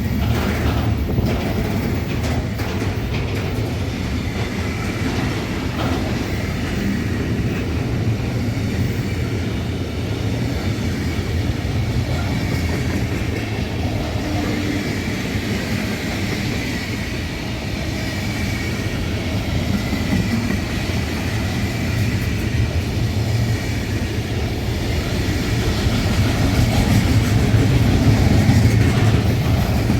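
A train moving along the tracks: a steady low rumble of wheels on rail with a faint high whine, growing a little louder near the end.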